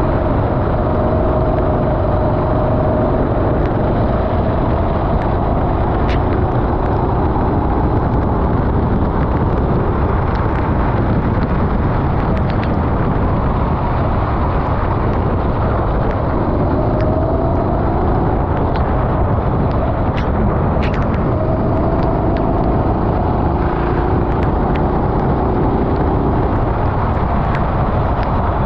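Rental go-kart engine running on a lap, its pitch rising several times as it accelerates out of corners, under a heavy steady wind rumble on the onboard microphone.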